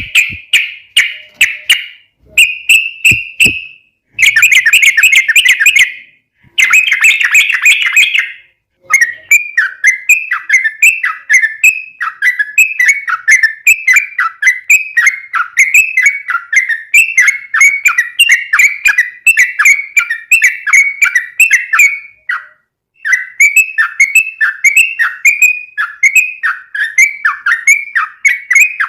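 Yellow-vented bulbul singing a long chattering run. First come several short bursts of rapid notes, then a long string of quick falling notes, about three a second, broken by one short pause about two-thirds of the way through.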